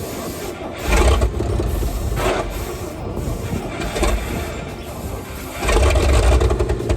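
Old gasoline engine of a 1957 FWD 4x4 truck running rough after long storage, surging louder several times, about a second in, near the middle and longest near the end, as it is kept from dying.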